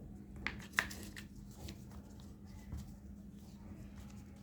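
Paper being handled: light rustling with two sharp clicks less than a second in and a few fainter ones after, over a steady low hum.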